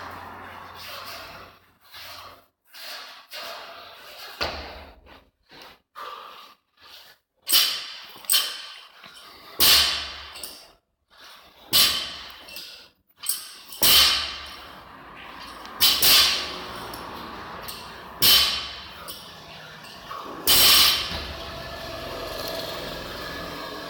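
Repeated loud impacts of gym equipment during a workout: a series of heavy strikes, roughly one every two seconds, after a stretch of lighter knocks.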